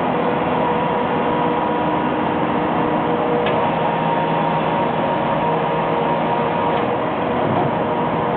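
A tractor with a sweeper broom runs steadily, a continuous mechanical hum and rush, with one faint tick about three and a half seconds in.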